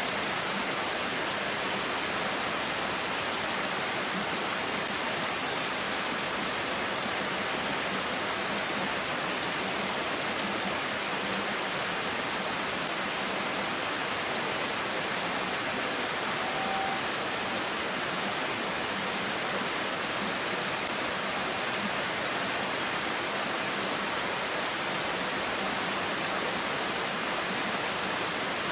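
Steady rain falling, a continuous even hiss of water with no breaks, with a brief faint tone about seventeen seconds in.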